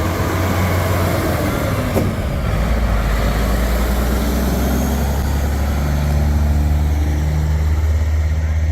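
Big diesel truck engine running loudly as the truck pulls away, its low engine note shifting partway through, with a single sharp click about two seconds in.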